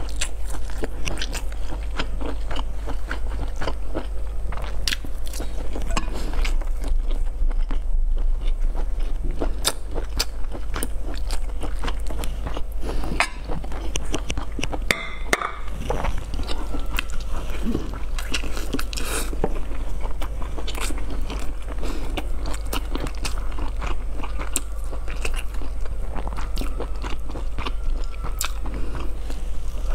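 Chewing and biting into a crisp-skinned roll, with many sharp crunchy crackles throughout. A low steady hum runs underneath.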